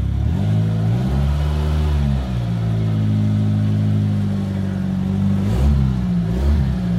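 Ford Laser station wagon's four-cylinder petrol engine pulling the car slowly in reverse. Its note rises as the car moves off, holds steady, then dips and rises with a few short throttle changes near the end.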